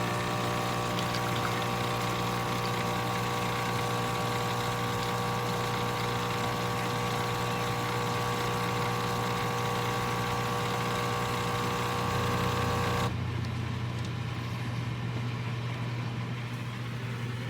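A steady mechanical hum of a machine running, holding several fixed tones; about thirteen seconds in, the higher tones drop away and the hum goes on more quietly.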